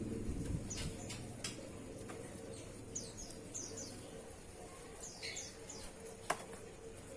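Oriental magpie-robin giving short, high chirps that fall in pitch, singly and in quick groups of two or three. A single sharp click sounds near the end.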